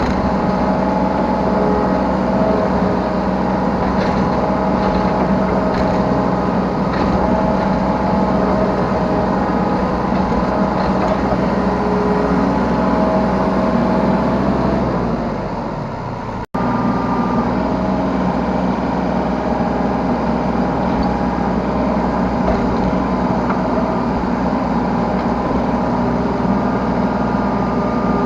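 Yanmar B3Σ 3-ton mini excavator's diesel engine running steadily with its hydraulics working, heard from the operator's seat. A little past halfway the sound sags and breaks off for an instant, then carries on as before.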